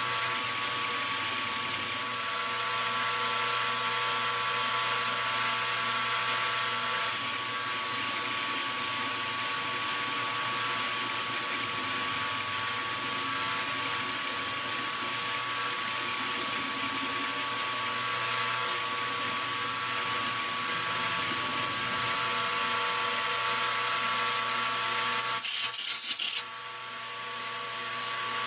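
Metal lathe running with a steady, many-toned whine from its drive while a carbide tool cuts. Near the end there is a brief harsh burst, and then the sound drops off suddenly.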